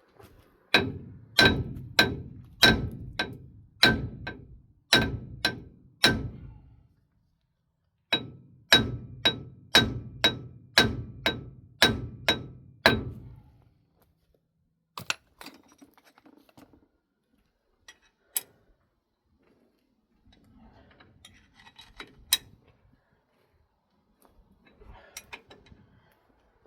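Hammer blows ringing on steel, in two steady runs of about nine and then about ten strikes, then a few scattered clinks of tools. This is the work of knocking out the M35A2 front axle's inner oil seal carrier.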